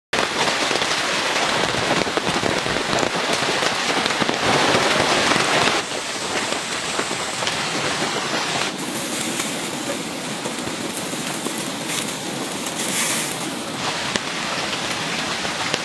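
Steady rain falling, with many sharp taps of drops landing close by. It gets a little quieter about six seconds in.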